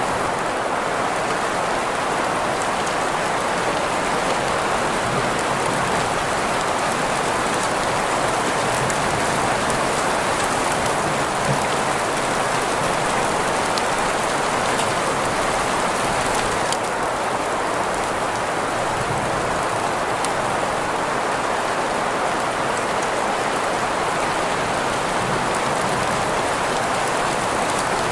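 Steady rain sound blended with green noise: a continuous, even hiss strongest in the middle range, with a faint patter of drops over it.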